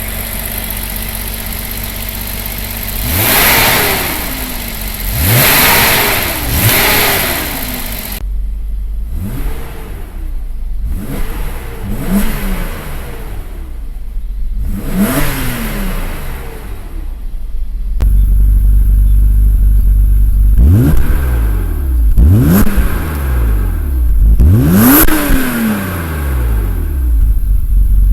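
BMW E34 M5's S38B36 straight-six, warm, on its stock exhaust: idling, with short free-revving blips that rise and fall back to idle, about nine in all, in groups of three. The sound changes abruptly twice, at about a third and two-thirds of the way through.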